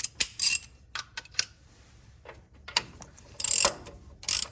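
Hand ratchet wrench turning a fastener: light clicks and clinks at first, then two short bursts of ratchet clicking in the last second and a half.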